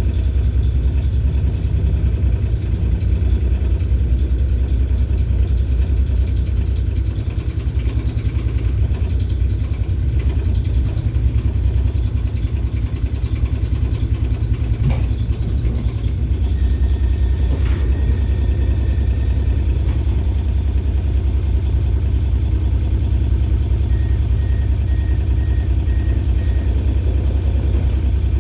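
E1 class tram 6027 giving off a loud, steady low rumble and vibration, the abnormal noise this tram makes and should not. A short high tone sounds in the middle, and a run of about five quick high beeps comes near the end.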